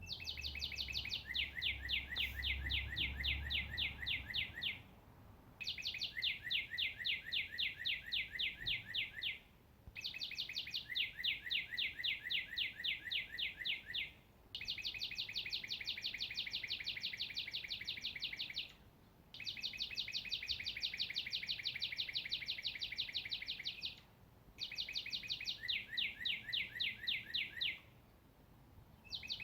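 A songbird singing a long, rapid trill of many quick repeated notes. The trill lasts about four seconds and is repeated six times with short pauses between.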